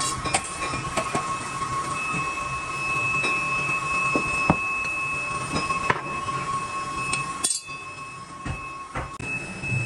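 Metalworking machinery running with a steady high whine, scattered sharp metallic clicks and knocks, and a brief break about seven and a half seconds in.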